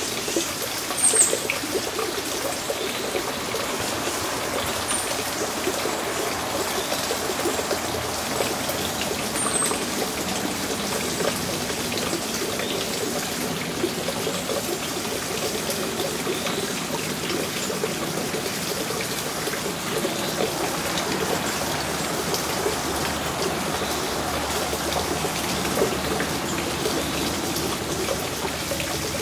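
A steady trickling, water-like sound, with a few short, very high, falling bird chirps above it.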